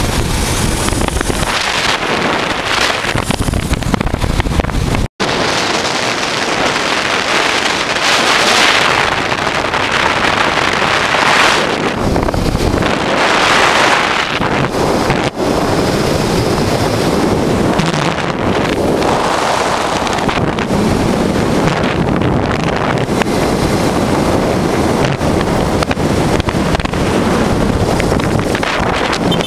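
Wind rushing and buffeting on the microphone over a 1988 Honda Transalp V-twin motorcycle riding on the road. The wind swells in gusts every few seconds, and the sound drops out for an instant about five seconds in.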